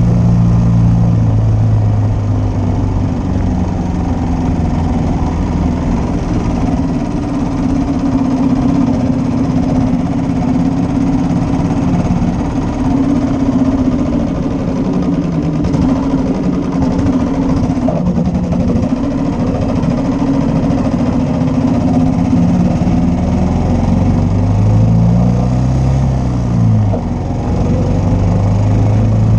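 1941 Matchless G3L's 350 cc single-cylinder four-stroke engine running steadily under way. Near the end the engine note rises and falls, with a brief dip, then settles back to a steady pitch.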